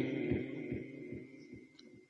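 The last sung note of a Quran recitation phrase dying away in a rhythmic, pulsing echo, about two and a half repeats a second, fading out over about a second and a half.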